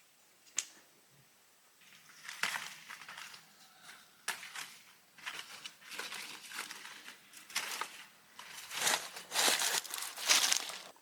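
Rustling and crinkling from something being handled, in a run of irregular short scrapes that grow louder and longer toward the end, with one sharp click about half a second in.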